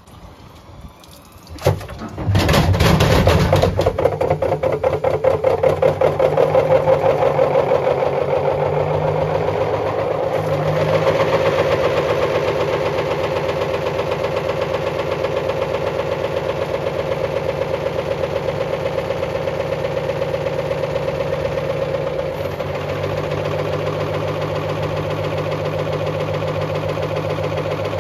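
Bosch washing machine's drum motor starting up about two seconds in, just after a short click, then running steadily with a fast, even pulsing.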